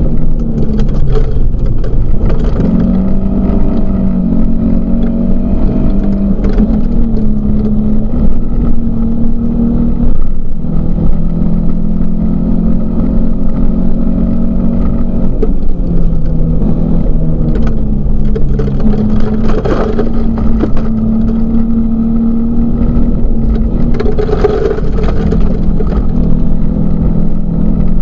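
Volvo 244 rally car's engine running hard under load, heard from inside the cabin, its note stepping up and down several times with gear changes and lifts. Occasional short knocks from the gravel road hitting the car.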